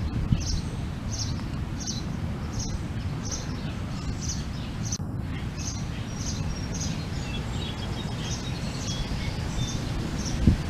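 A songbird repeating a short, high call about twice a second, with a few fainter chirps from other birds in the second half, over a steady low rumble.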